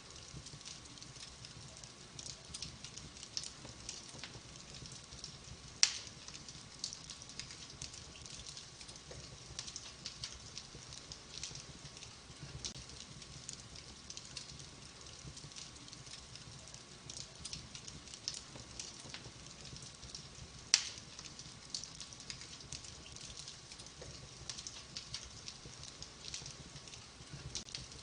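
Wood fire burning in a fireplace, crackling with many small snaps and two loud pops, one about six seconds in and one about twenty-one seconds in.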